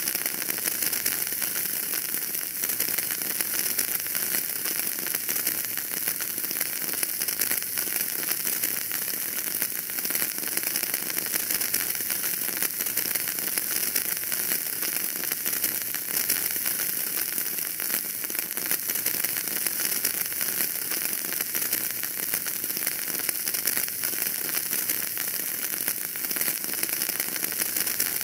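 Wood fire burning in a fireplace, crackling steadily: a dense run of small irregular pops and snaps over a hiss.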